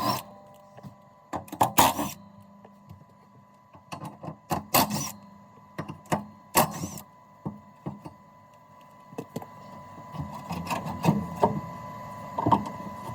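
Intermittent metallic clicks and clanks of tools working on the bolts of a car's transmission mount bracket. A few short louder bursts stand out, and the clicks come thicker near the end.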